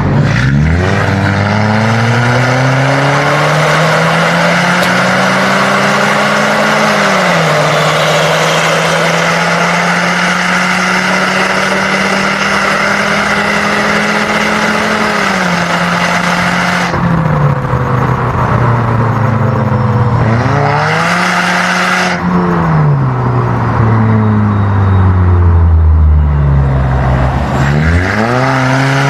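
Big-turbo Subaru's flat-four engine pulling hard, revs rising and then dropping suddenly at gear changes about 7 and 15 seconds in. After that the throttle comes off and the revs fall, climb briefly, fall again, and pick up once more near the end.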